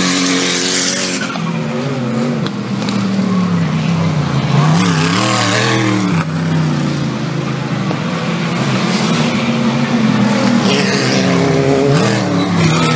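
4WD off-road race vehicles' engines revving up and down on a dirt course, the pitch rising and falling again and again. There are bursts of tyre and dirt noise near the start, about halfway through and near the end.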